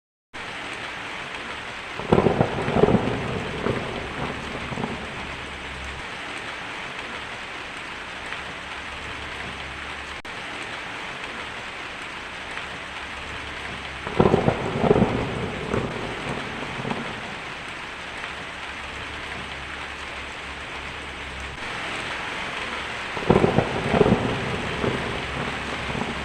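Steady heavy rain with thunder rumbling three times: about two seconds in, around the middle, and near the end. The rain starts abruptly out of silence.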